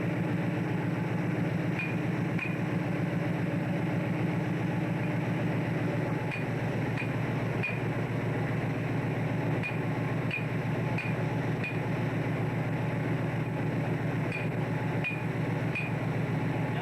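Fishing boat's engine running steadily, a low drone, with short high pips sounding every so often over it.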